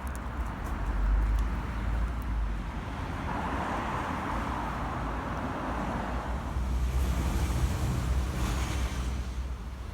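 Outdoor city background noise: a steady hum of road traffic, swelling for a couple of seconds about a third of the way in, with a low wind rumble on the microphone.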